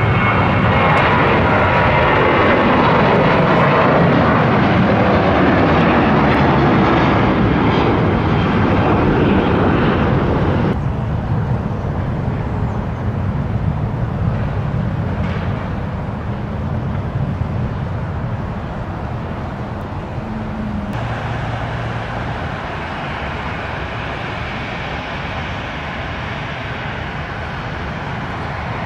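Airliner engines running loud as an aircraft passes, with the pitch falling over the first several seconds. About 11 seconds in the roar turns abruptly duller and quieter, and it shifts again about 21 seconds in.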